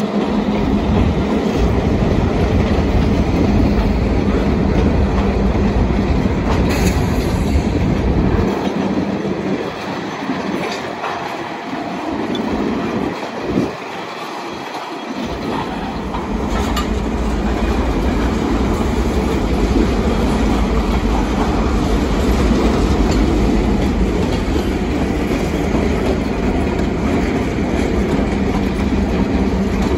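CN diesel freight locomotives passing close by, their engines droning steadily, while tank cars roll past clicking over the rail joints. The deep engine drone drops away for several seconds about a third of the way in, while only the tank cars are going by, then comes back as more locomotives pass.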